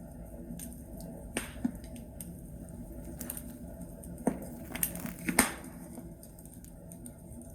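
Wood fire in a fireplace crackling: burning logs give irregular sharp pops and snaps, a cluster of the loudest a little past halfway, over a steady low background of the fire.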